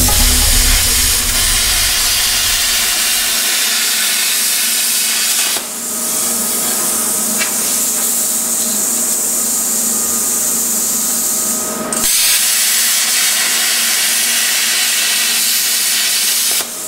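Plasma cutter cutting plate steel: a loud, steady hiss of the air-plasma arc, broken briefly about six seconds in and again about twelve seconds in.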